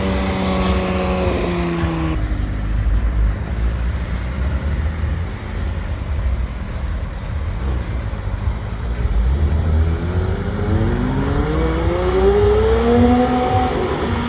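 Porsche 991 GT3 RS flat-six engine falling in pitch as it comes off the throttle, cut off abruptly about two seconds in, followed by a low rumble of traffic. About ten seconds in the engine pitch climbs steadily through the revs as the car accelerates, easing off near the end.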